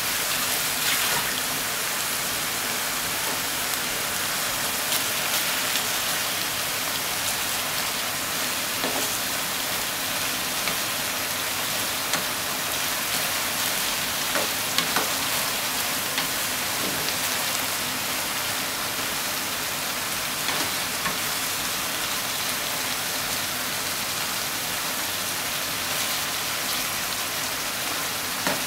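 Minced pork, onion and sliced eggplant sizzling steadily in a frying pan, with a few light knocks and scrapes of a spatula against the pan.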